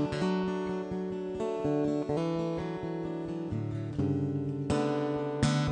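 Acoustic guitar played without singing, chords changing every second or so, with two harder strums near the end.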